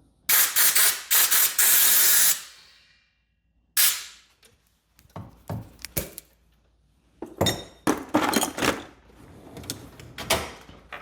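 Pressurised spray hissing in a run of short blasts for about two seconds, then one shorter blast, blowing debris out of outboard water-pump parts. After that come scattered knocks and clicks of parts and tools being handled.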